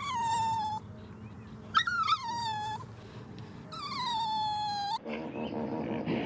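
An animal giving three high, whining calls about a second apart, each under a second long and sliding slightly down in pitch. About five seconds in, the sound cuts to a different, rougher noise.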